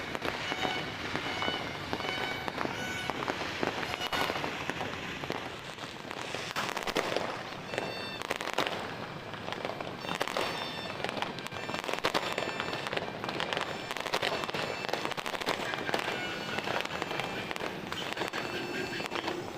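Many fireworks and firecrackers going off at once: a dense, unbroken run of bangs and crackles.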